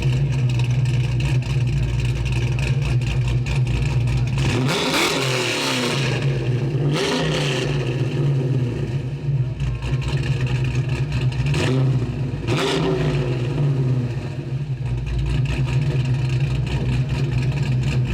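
Studebaker 289 V8 with an Edelbrock four-barrel carburetor, idling with a steady burble and blipped several times in short revs that rise and fall back.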